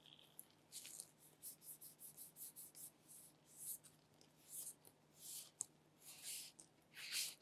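Faint, quick rubbing and scratching strokes, about two a second, from hands handling an object against a surface, with a single sharp click about five and a half seconds in.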